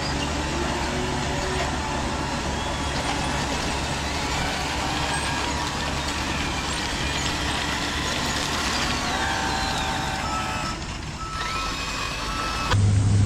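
Radio-controlled construction models running: small motors and gearboxes whining, their pitch gliding up and down over a steady mechanical noise. Near the end this cuts suddenly to a louder, steady low hum.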